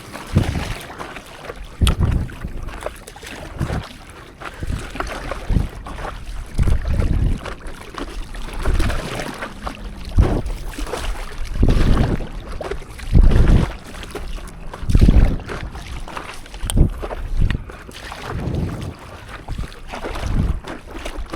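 Stand-up paddleboard on the open sea: water splashing and sloshing in a loose rhythm of swells every second or two, typical of paddle strokes, with wind rumbling on the microphone.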